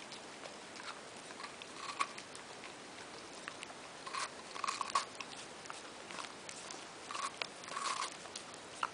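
Scottish terrier biting and chewing a frozen Icypole, with irregular short wet crunches and smacks every second or two.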